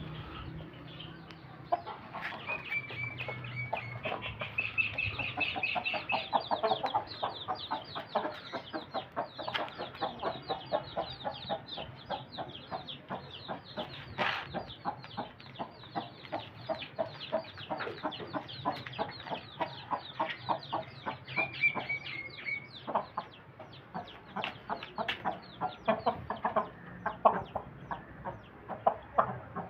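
Chickens clucking in quick, repeated calls, several a second, with a longer, higher drawn-out call at about two to six seconds in and again at about twenty-one seconds.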